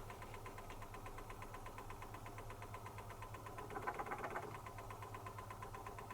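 Zanussi FC1000 compact washing machine running quietly mid-cycle: a low steady hum with a fast, even ticking, and a brief louder burst about four seconds in.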